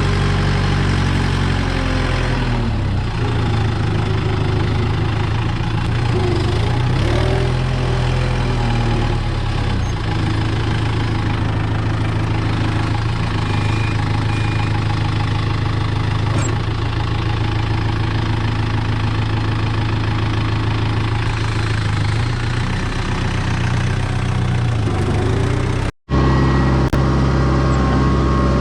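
Kubota M6040 tractor's four-cylinder diesel engine running steadily while clearing snow with the front loader bucket, its pitch shifting a little with engine speed. Near the end the sound drops out for a moment, then resumes.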